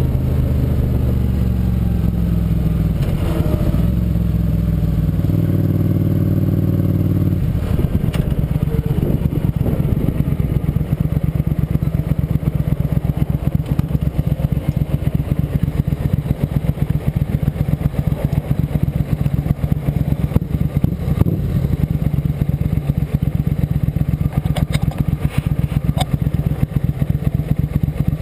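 Motorcycle engine running under way, its pitch shifting in steps over the first seven seconds or so, then holding a steady pulsing note.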